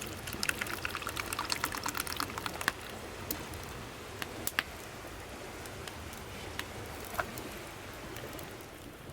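Something being poured, heard as a quick run of small ticks for the first couple of seconds, then a few scattered ticks.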